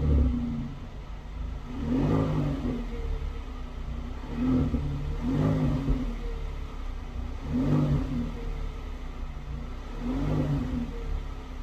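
Hyundai Palisade's exhaust, fitted with a custom variable-valve exhaust, as the engine is blipped repeatedly from idle. Each short rev rises and then falls back to idle, about every two to three seconds.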